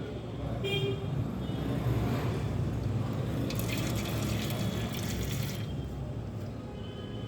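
Water being squirted from a syringe into an aluminium can, with a hiss lasting about two seconds midway, over a steady low hum.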